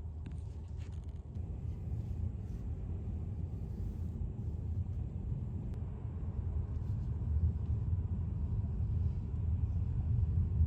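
Steady low rumble that grows gradually louder, with a few faint clicks about half a second to a second in.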